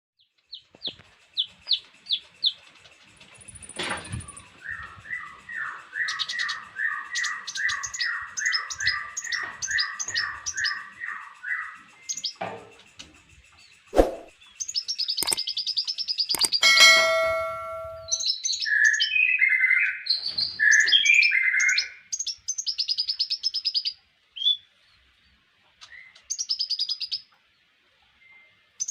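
A konin songbird singing a long, varied song of rapid repeated chirps and trilled phrases, with a few sharp clicks about halfway through.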